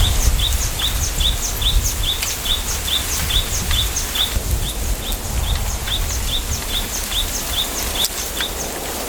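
A bird calling over and over in short, quick falling notes, about two to three a second, over a low rumble of wind in a bamboo grove.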